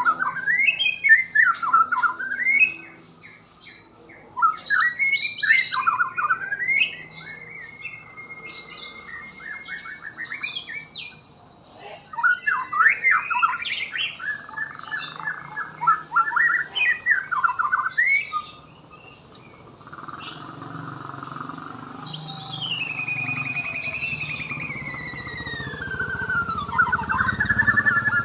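White-rumped shama (murai batu) singing in varied, quickly changing phrases of chirps, harsh notes and whistles, with short pauses between bursts. In the last several seconds a low rumble and a long, slowly falling whistle join in.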